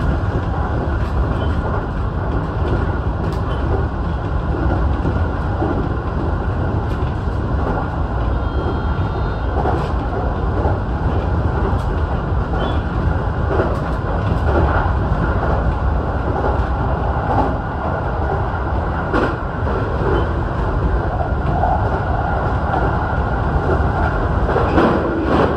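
Sotetsu 12000 series electric train running at speed, heard from the front of the train: a steady rumble of wheels on rail with occasional sharp clicks.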